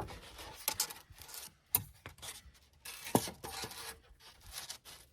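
Irregular scratchy rubbing and scraping sounds of hands working insulation material, with two sharp clicks about two and three seconds in.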